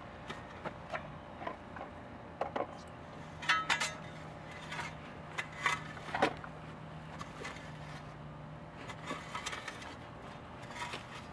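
Irregular light knocks and clicks of objects being handled and set down on hard surfaces, over a steady low hum.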